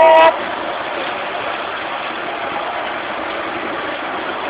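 A miniature railway locomotive's whistle, several steady notes sounding together, cuts off suddenly a fraction of a second in. A steady, even running noise from the train follows it.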